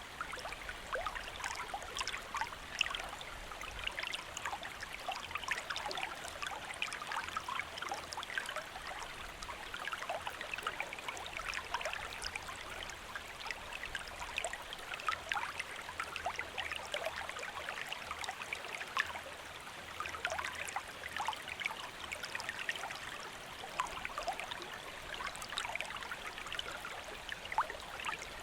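Shallow stream flowing steadily over rocks, a constant burbling with small splashes and trickles.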